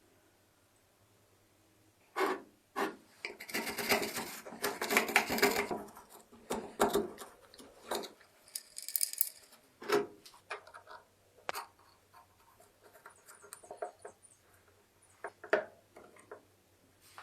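Irregular clicks, knocks and rattles of small hard objects being handled, thickest a few seconds in, then scattered single taps.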